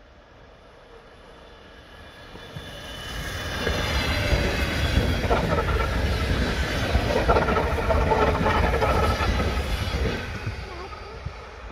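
Electric commuter train growing louder as it approaches, then passing close by with a heavy rumble and rapid clatter of wheels over the rails, and fading as it pulls away near the end.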